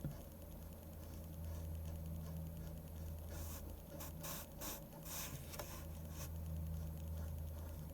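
Pen strokes scratching on paper while drawing manga: a quick run of short strokes in the middle, over a steady low hum.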